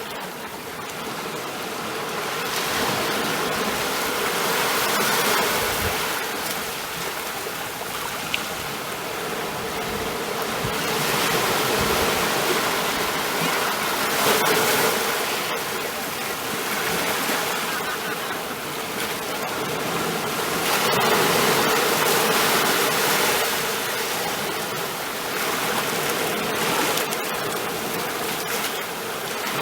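Ocean waves washing on a shore in a continuous rush of surf that swells and eases every few seconds.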